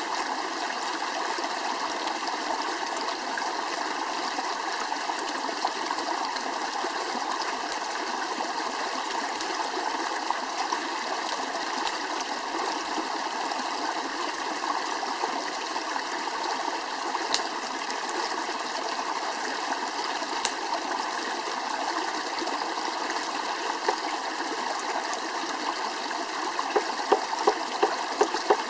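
Steady rushing of flowing water, like a stream running over rocks. Near the end come a handful of sharp crackles.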